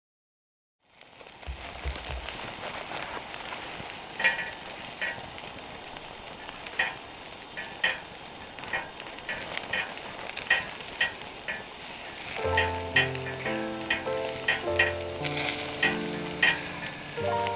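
Food sizzling in a hot pan, a steady hiss with scattered sharp pops. Soft music comes in about two-thirds of the way through.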